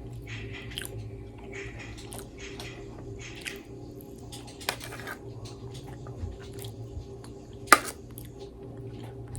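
Close-miked chewing and biting of food, a run of short soft mouth sounds, with one sharp click about three-quarters of the way through.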